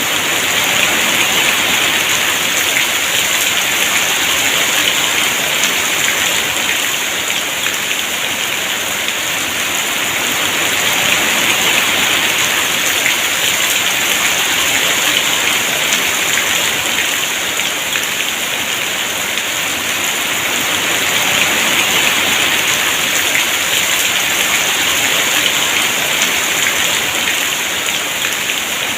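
Heavy rain falling steadily, a dense even hiss that swells and eases slightly every ten seconds or so.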